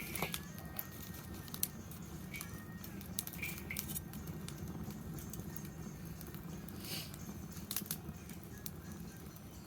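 Wood fire burning in a fire-pit stand, crackling: scattered sharp pops and snaps over a steady low rumble.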